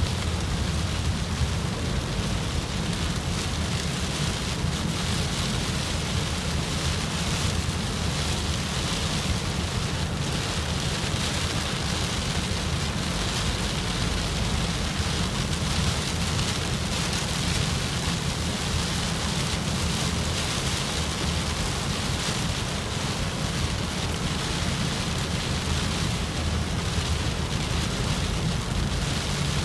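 Steady rain drumming on a moving car, heard from inside the cabin, over a low, continuous rumble.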